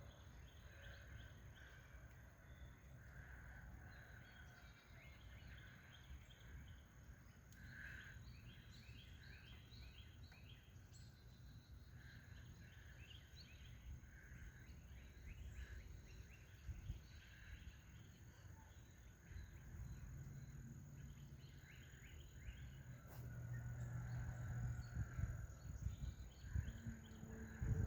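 Faint outdoor ambience of small birds chirping and trilling in repeated short phrases, over a low rumble that grows louder in the last several seconds.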